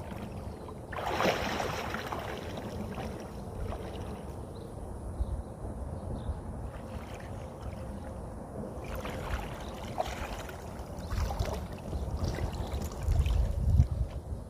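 Water sloshing and splashing around a moving kayak, with a brighter splash about a second in. Low rumbling grows louder near the end.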